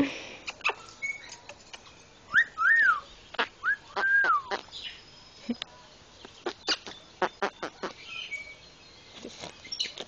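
Two pairs of soft whistled notes that rise and fall, about two and a half and four seconds in, among scattered short smacks and clicks as a red lory is held close and kissed.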